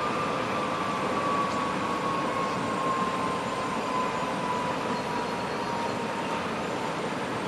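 Norfolk Southern freight train rolling past, a steady rumble and rush of the cars on the rails. Over it runs a thin whine that slowly drops in pitch and fades out about six and a half seconds in.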